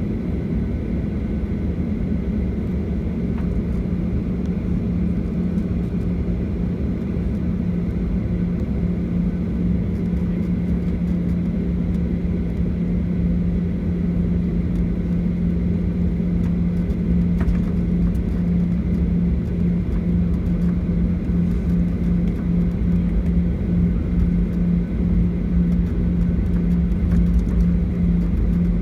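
Cabin noise of a Boeing 737-800 with its CFM56 engines running, heard from a window seat: a steady rumble with a constant low hum, growing a little louder toward the end.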